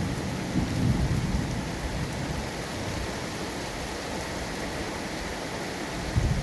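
Steady, heavy-sounding rain hiss, with low rumbles swelling in the first second and again near the end.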